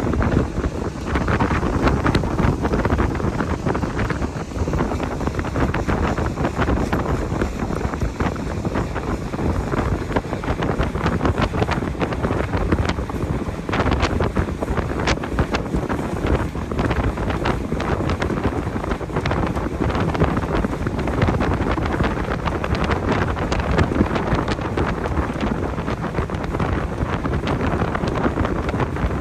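Wind buffeting the microphone of a boat under way, over the steady rush of the boat's motor and water.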